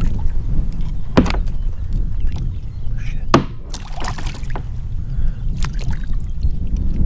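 Heavy wind buffeting the microphone on a kayak, with about four short, sharp knocks spread through it.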